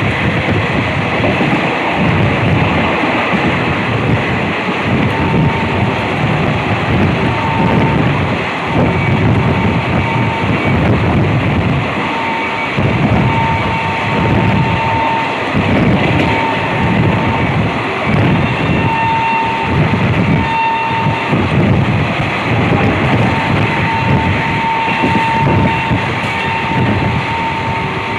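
Passenger train running at speed, heard from on board: a loud, steady rumble of wheels on rails with wind rushing past the microphone. A thin high whine comes and goes throughout.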